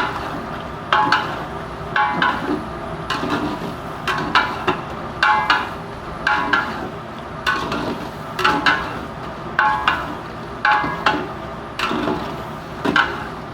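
A metal ladle stirring chicken gizzards in a large metal cooking pot, scraping and knocking against the pot about once a second, each stroke giving a short metallic ring, over a steady sizzle of frying. This is the bhuna stage, with the oil starting to separate and rise to the top.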